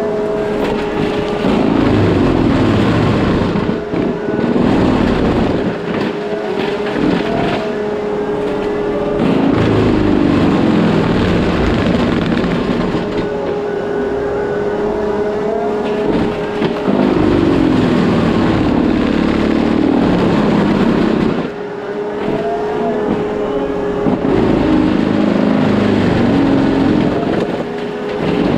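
Case skid steer's engine and Shearex forestry mulching head running hard, cutting weeds: a steady whine that breaks about every seven or eight seconds into a sagging and recovering pitch with a rough grinding noise as the head takes on material.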